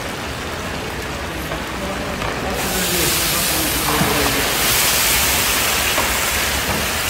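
Meat frying in hot oil in a huge cooking pot, a steady sizzle that grows louder and brighter about two and a half seconds in as handfuls of shredded carrots are tossed into the fat.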